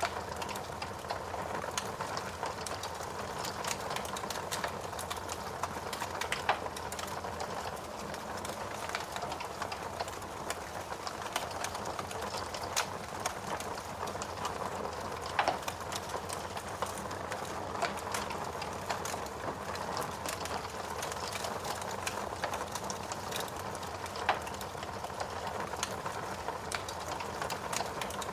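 Steady rain with a fire crackling in a fireplace: a constant hiss under many small pops, and a few louder snaps scattered through.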